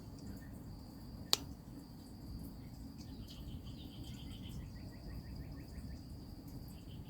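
Insects chirping: a steady high-pitched buzz with short trills of rapid pulses that come and go. A single sharp click sounds about a second in.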